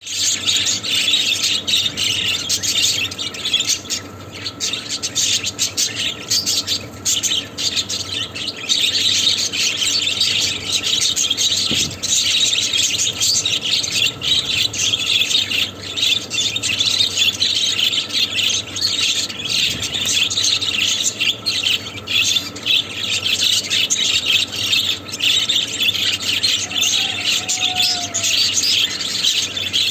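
Budgerigars chattering continuously, a dense stream of rapid chirps and warbles.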